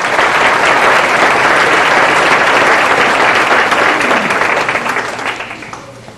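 Audience applauding, loud and dense, dying away over the last second or so.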